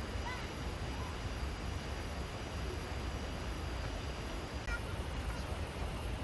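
Steady outdoor noise with a low rumble and a constant high hiss, and a few faint short chirps near the start and again near the end.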